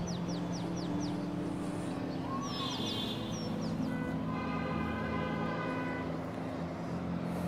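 Small birds chirping in quick runs of short, falling high notes, in two bursts, over steady held low tones.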